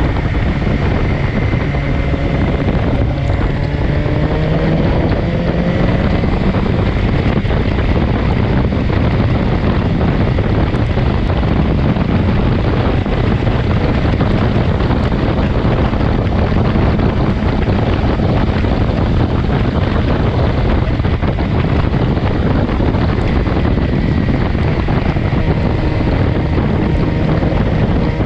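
Wind roaring over the microphone of a motorcycle at speed, with the BMW S1000XR's inline-four engine running underneath; a faint engine note rises slightly a few seconds in.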